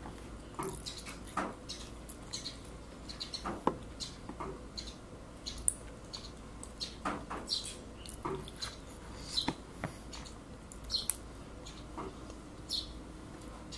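Close-up eating sounds: wet chewing and lip smacks with scattered clicks of a metal spoon and fork against a cardboard takeout box, irregular and without a steady rhythm.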